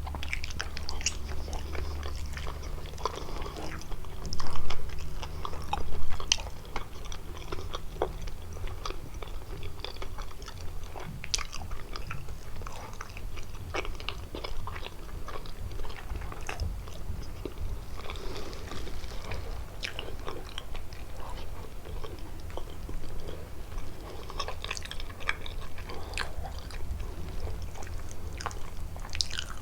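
Close-miked chewing and biting of kalaj pastries filled with walnuts and cheese: a run of small wet mouth clicks and crackles, with two louder bites about four and a half and six seconds in.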